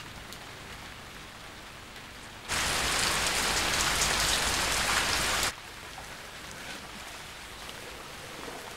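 Heavy rain pouring steadily, loud for about three seconds in the middle, with a soft hiss of rain before and after.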